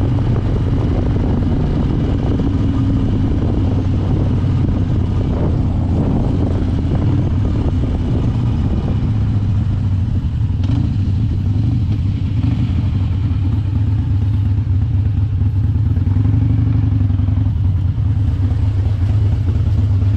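Harley-Davidson Dyna Wide Glide's V-twin engine running at a steady, low drone, without big revs.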